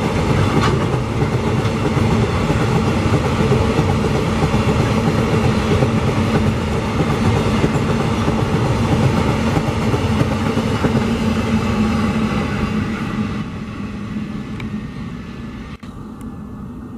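Freight train of GDU iron-ore gondola wagons rolling past, a steady heavy rumble of steel wheels on rail. The rumble fades away over the last few seconds as the end of the train passes and moves off.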